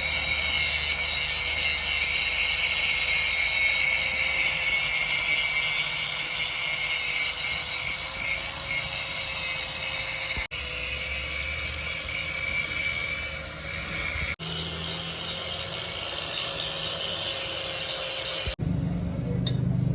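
Metalworking machinery running steadily in a workshop: a constant hum with a dense, high-pitched cutting hiss. It breaks off abruptly three times, and near the end gives way to a lower rumble.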